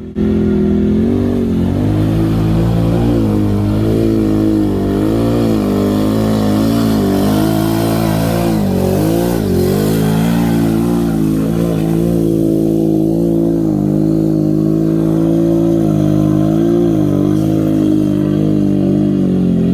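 Off-road mud truck's engine running hard at high revs, its pitch wavering up and down as the throttle is worked, with a deeper drop and climb back about nine seconds in. The sound starts abruptly at full loudness.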